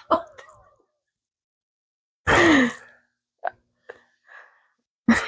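A person lets out one loud, breathy sigh with a falling pitch about two seconds in, followed by a few faint clicks.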